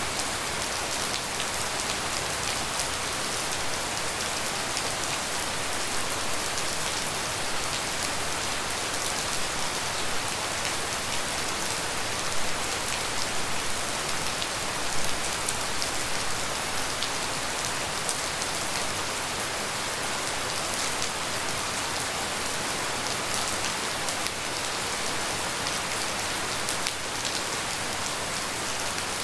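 Steady tropical rain falling: an even hiss with many close drops ticking through it, and a couple of slightly louder drop hits around the middle.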